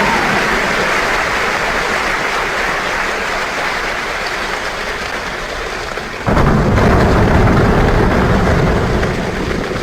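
Dense, rain-like hiss and patter. About six seconds in it turns suddenly louder and deeper, with a rumble like heavy rain or thunder, then eases near the end.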